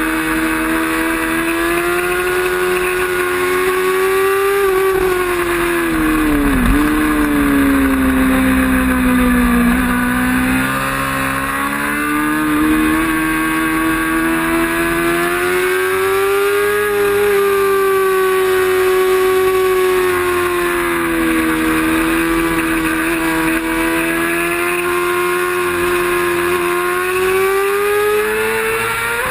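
Racing motorcycle engine running hard at high revs, its pitch slowly rising and falling through the corners, with a sharp brief drop in pitch about seven seconds in.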